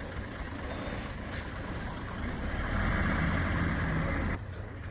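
Diesel truck engine running under load, a low rumble that grows louder about halfway through, then drops off abruptly near the end.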